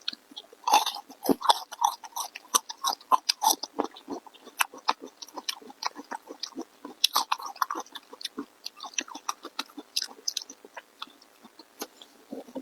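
A person chewing food close to the microphone: a dense, irregular run of short wet smacks and clicks, thickest in the first few seconds and again about seven seconds in.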